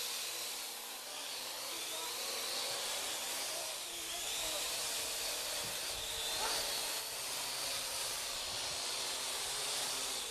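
Parrot AR.Drone quadcopter's electric motors and propellers whining with a hiss, the pitch slowly rising and falling as the rotor speeds change.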